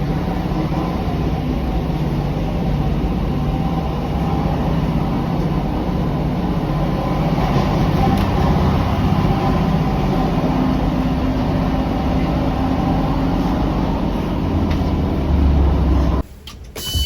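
Steady rumbling drone inside a moving diesel train carriage, engine and wheel noise together. A deeper rumble builds near the end, then the sound cuts off abruptly.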